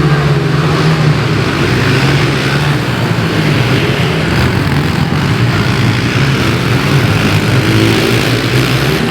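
Pit bike engine running, its pitch held fairly steady with slight wavering.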